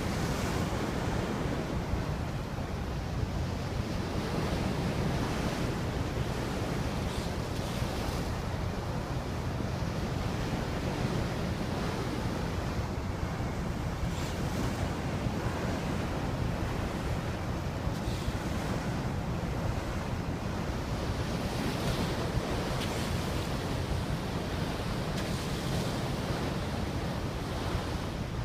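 Sea water rushing and splashing along a moving sailing ship's hull, with wind buffeting the microphone as a steady low rumble.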